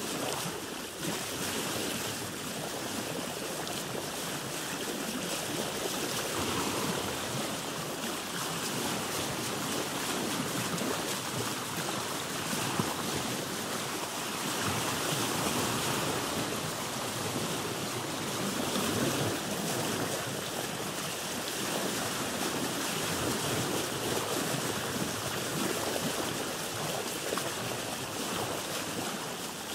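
Sea water washing and sloshing around a boat: a steady rushing of waves that swells a little louder now and then.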